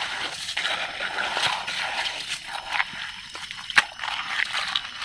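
Water sloshing and splashing as small plastic toy vehicles are washed by hand, with scattered light knocks and one sharp click about four seconds in.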